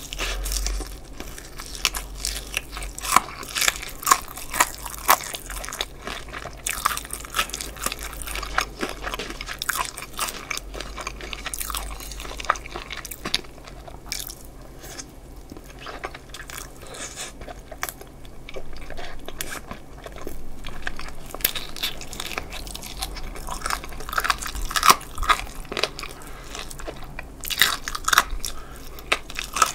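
Close-miked biting and chewing of crispy fried chicken, with sharp crunches of the coating coming in quick runs. The crunching is sparser in the middle and busier again near the end.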